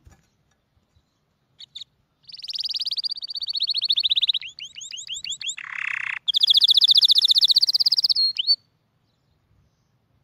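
A small songbird singing a long, high, rapid trill, broken midway by a few quick falling notes and a short raspy note, then trilling again more loudly before stopping abruptly.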